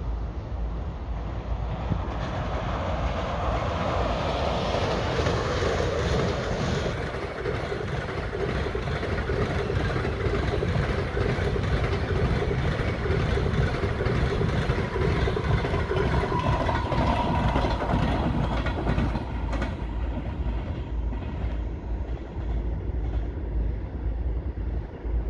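Passenger train rolling past: the steady rumble of wheels on rail with some clatter over the joints. It swells a couple of seconds in and is fullest through the middle.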